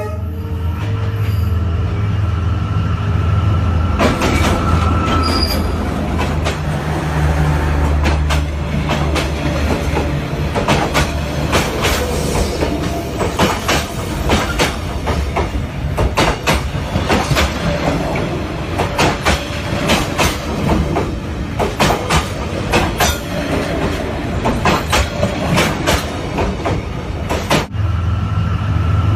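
Passenger train running on the rails: a steady low rumble with irregular sharp clacks of the wheels over rail joints, which become frequent about four seconds in. A brief high wheel squeal comes at about the same time.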